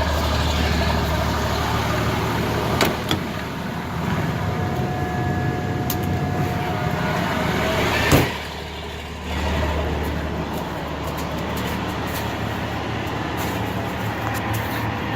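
Bucket truck's engine idling steadily, with a few clicks and one sharp knock about eight seconds in.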